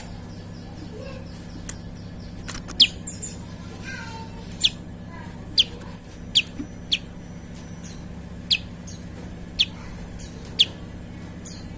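Prinia (prenjak) calling: a run of sharp, quick downward-swept chip notes, roughly one a second, over a steady low hum.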